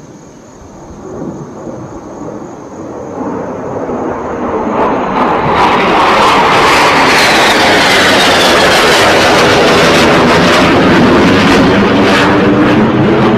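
Low-flying aircraft approaching and passing overhead: it builds from faint to very loud over about six seconds, then holds loud, with a whine that falls in pitch as it goes by.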